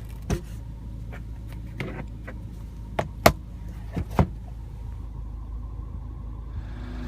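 Sharp clicks and knocks from car interior fittings being handled, about six of them in the first four seconds, over a steady low rumble in the cabin.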